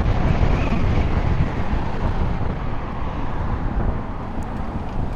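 Wind rushing over the microphone and road noise from riding a 96-volt electric motorcycle, with no engine note. The rumble eases off somewhat toward the end.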